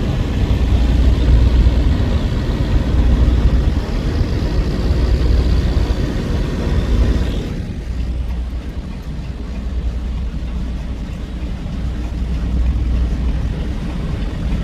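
Semi-truck cab noise while driving: a steady low engine and road drone with a hiss over it. About halfway through, the hiss drops away and the noise gets quieter.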